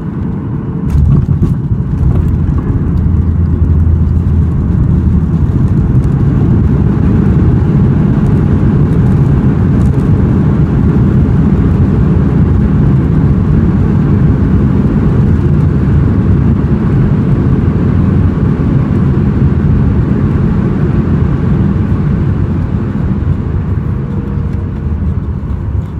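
Boeing 737-800 touching down, heard from inside the cabin: a few brief knocks about a second in, then a loud, steady low roar of reverse thrust and the landing rollout, easing off near the end as the jet slows.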